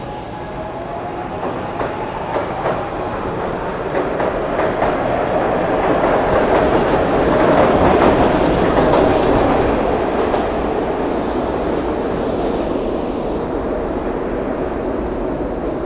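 SEPTA Market–Frankford Line elevated train going by, its wheels clattering over the rail joints. The sound builds to its loudest about halfway through and then slowly dies away.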